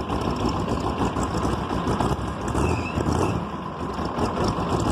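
6.2-litre V8 diesel engine in a WD-9 tractor idling steadily just after a cold start, warming up.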